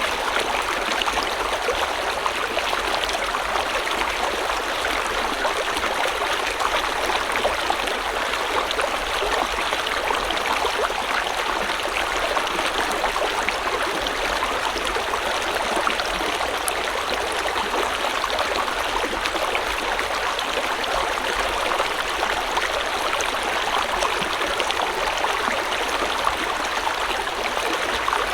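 River or stream water flowing steadily over stones, with a continuous rushing babble and small splashes.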